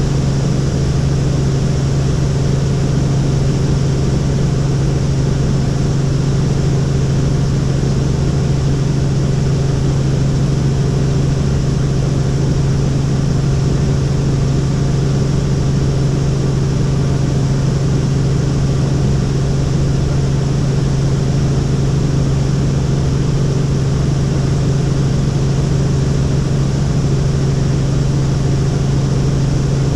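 Helicopter in flight: a loud, steady drone of the engine and rotor, a constant low hum over even noise with no change in pitch.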